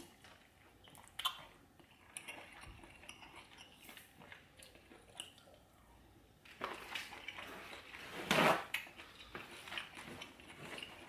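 Close-up eating sounds from a seafood boil: chewing, with scattered clicks and the handling of food and utensils. It grows busier about two-thirds of the way through, with one louder burst of noise just past the middle of that stretch.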